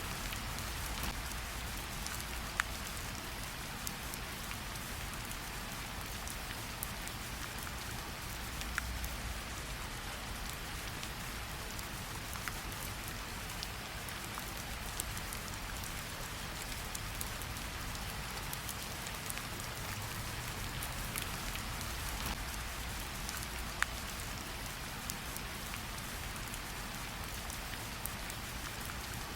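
Steady rain falling on leaves, damp earth and a pool of water, an even hiss with the sharp ticks of single heavy drops scattered through it.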